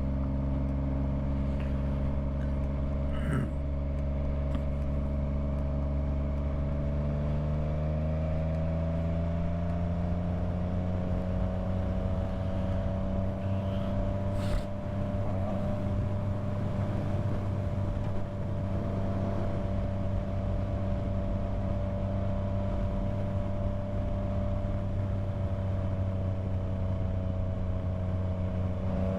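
Yamaha MT-09's inline three-cylinder engine running at a steady cruise. Its pitch rises gently about ten seconds in, then holds, and starts to climb again at the very end.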